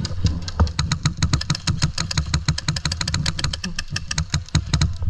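Airsoft gun firing a rapid string of sharp clicking shots, about ten a second, with a steady low rumble of wind on the microphone underneath.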